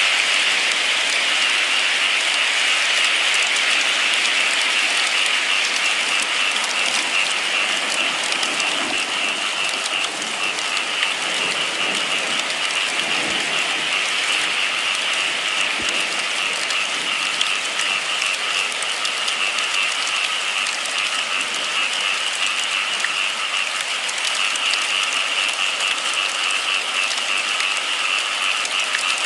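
Steady rain falling, an even hiss with a constant high-pitched whirr over it.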